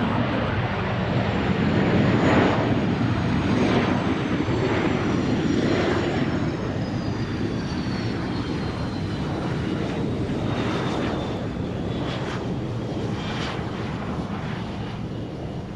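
Fixed-wing aircraft passing with a steady engine roar that is loudest about two seconds in and slowly fades, with a thin high whine falling in pitch throughout.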